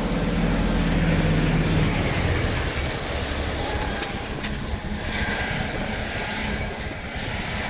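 Automated-arm refuse truck running, loudest over the first two seconds and then easing to a steadier, lower level.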